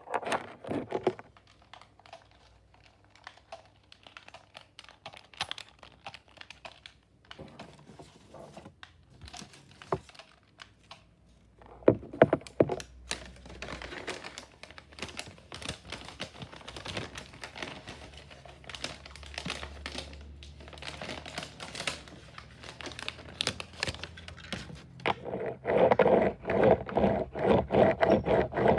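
Close crackly noises: many small clicks, taps and crinkles in an irregular run, busiest and loudest near the end.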